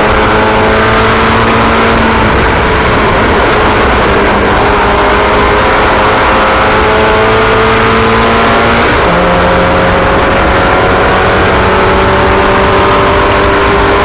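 Several racing engines running together on track, their pitches overlapping and each rising slowly again and again as the cars accelerate.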